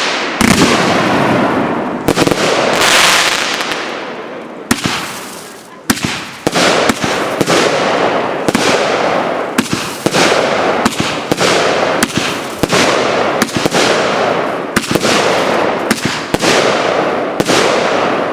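Consumer fireworks going off in quick succession: sharp bangs about one or two a second over a dense, swelling crackle that fades out near the end.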